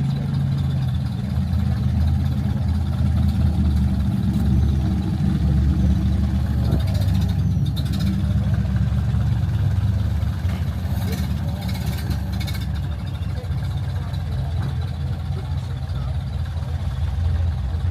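A car engine idling, a steady low rumble, with a few brief clicks about midway.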